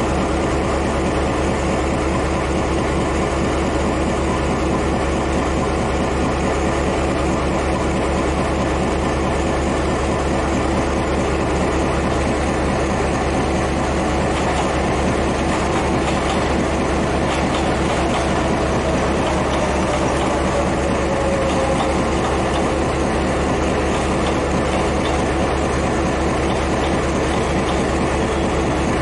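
Diesel-electric locomotive idling close by, a steady low throbbing rumble. From about halfway in, an electric multiple-unit commuter train rolls past on a nearby track, with light wheel clicks and a motor whine that falls in pitch as it slows.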